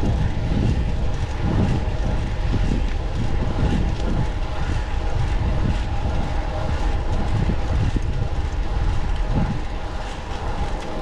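Continuous rumble of wind on the microphone and tyres on the road while riding a fixed-gear bicycle, swelling about once a second, with a faint steady hum above it.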